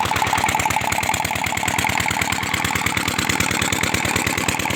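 Diesel engine running steadily on LPG, with a fast, even firing beat. It runs dual-fuel: its diesel throttle is shut and its speed is held by the gas pressure, with some diesel still used.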